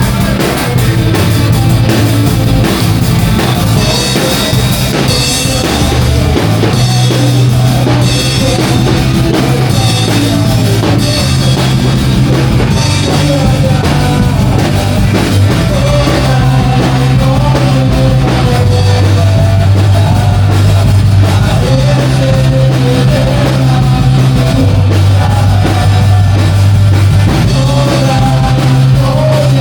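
Rock song played on drum kit and bass, with some singing; the bass steps between notes every couple of seconds.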